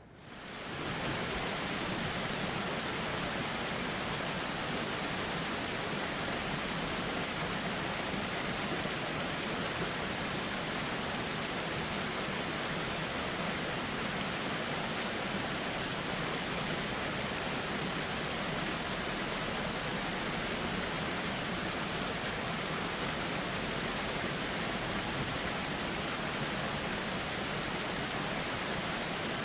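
A flowing river, its water rushing steadily. The level dips briefly and swells back up right at the start, like a fade between loops of the recording.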